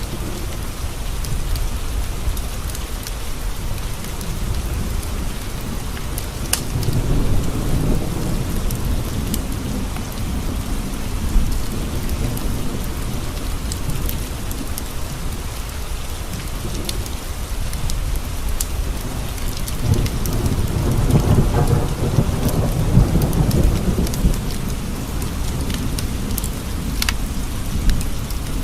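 Steady rain with two long rolls of thunder, a low rumble swelling about seven seconds in and a stronger one around twenty seconds in. A few sharp crackles stand out now and then.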